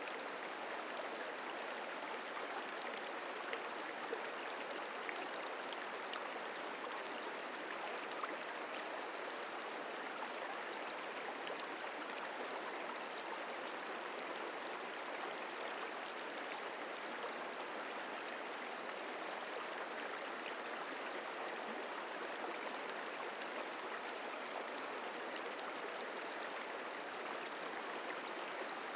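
The Merced River flowing: a steady, even rush of moving water, with a couple of faint ticks.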